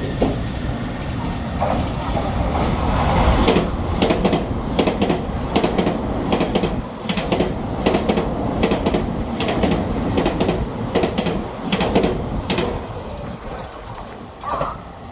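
Train running through a station, with the steady noise of its passage and a long run of sharp clicks from the wheels over rail joints, dying away near the end.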